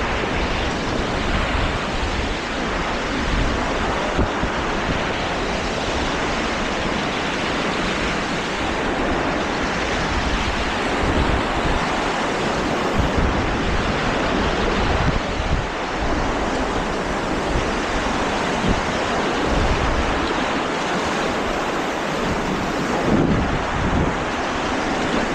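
Steady rushing noise of wind buffeting the microphone, with irregular low rumbles.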